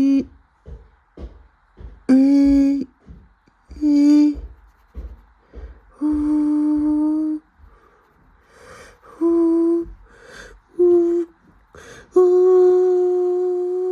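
A person humming a tune in held notes about a second long, the pitch stepping upward toward the end, with soft low taps in the gaps between notes.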